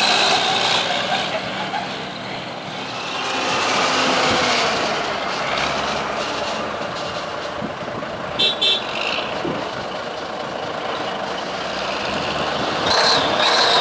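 Brockway 360 diesel truck running, with two short horn toots about halfway through.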